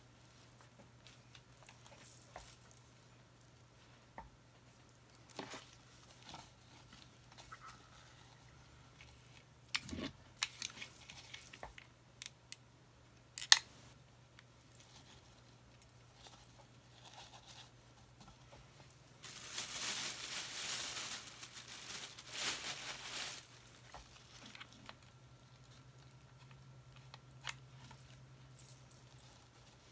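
Hands handling craft materials: scattered clicks and taps, then a few seconds of rustling and crinkling about two-thirds of the way through, over a faint steady hum.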